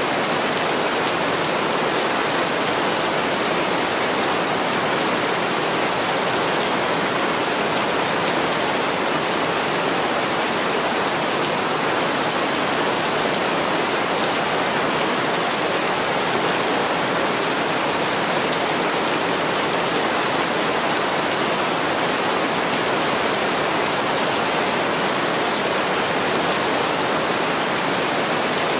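Heavy rain pouring down on a window pane, a steady, unbroken hiss.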